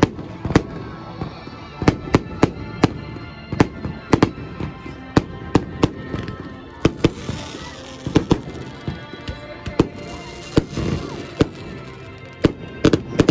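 Fireworks display: an irregular run of sharp bangs from bursting shells, roughly two a second, with stretches of hissing crackle about halfway through and again near the end.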